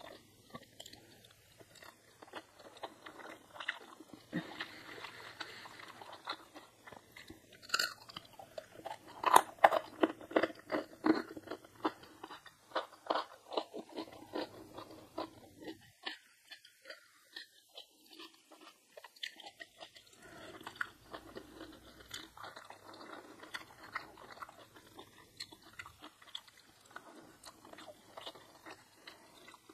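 A person biting and chewing crunchy food close to the microphone, ASMR-style, with a run of loud irregular crunches in the middle, a few seconds' pause, then softer chewing.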